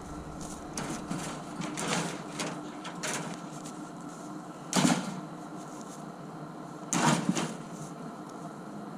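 Footsteps crunching in snow: a few irregular steps, two of them louder, about halfway through and about two thirds through.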